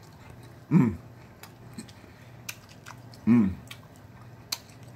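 A man chewing a mouthful of fried breaded chicken, with wet mouth clicks scattered throughout. Twice he gives a short closed-mouth vocal sound as he eats.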